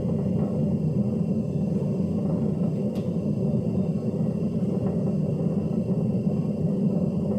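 Hoover DYNS 6105 DZ washing machine, a unit with worn drum bearings, running at the start of a spin-only program before its spin-up: a steady low rumble.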